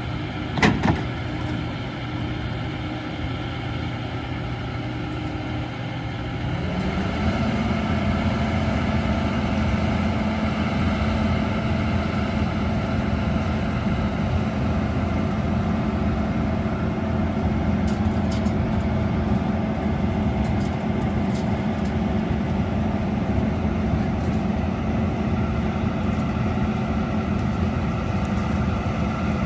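John Deere S7 800 combine running steadily, its hum rising in pitch about six to seven seconds in and then holding at the higher pitch. There are a couple of sharp clicks about a second in.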